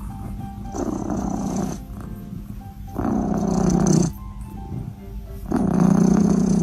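A pet animal growling in three rough bursts of about a second each, with background music underneath.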